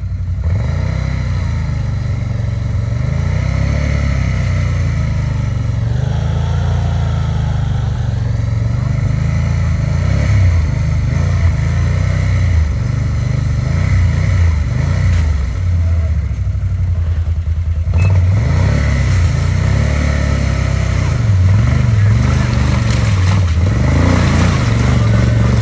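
Vehicle engine running and revving under load, without a break, while a vehicle stuck in the mud is towed out on a strap.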